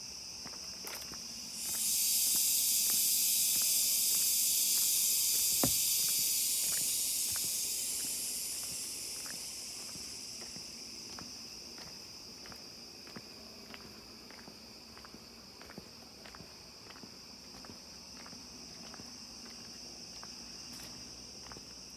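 Rainforest insects chirring steadily at a high pitch, with a loud hissing buzz that starts suddenly about two seconds in and fades out over the next several seconds; faint scattered clicks throughout.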